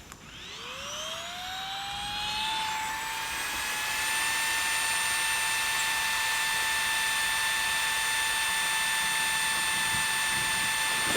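A small electric motor spinning up over about three seconds into a steady high whine, which then holds one pitch.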